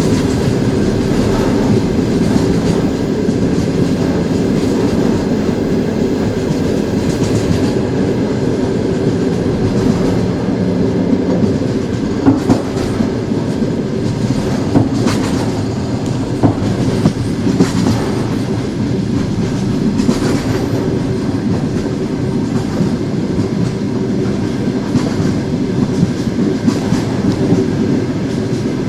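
Train wheels rolling steadily on the rails: a continuous rumble with a steady hum, and sharp clicks of the wheels over rail joints in the second half.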